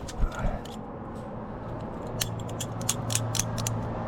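Metal climbing gear, carabiners and protection racked on a harness, clinking and rattling against each other as the climber moves, in a quick cluster of clicks over the second half.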